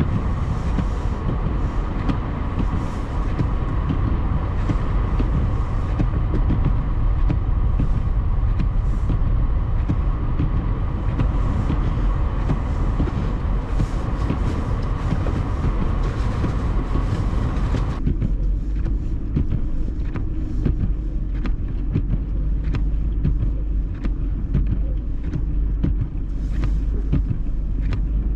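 Steady rumble of a four-wheel-drive vehicle driving through deep snow, heard from inside the cabin. About two-thirds of the way through the sound changes abruptly to a lower steady hum with many small clicks.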